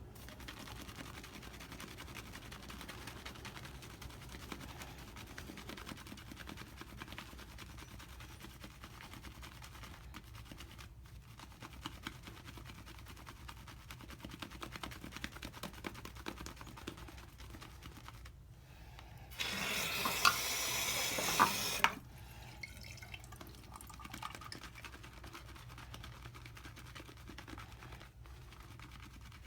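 Omega R&B shaving brush working a wet lather of Williams mug soap, a soft steady swishing. About two-thirds of the way through, a water tap runs for about two and a half seconds and cuts off suddenly.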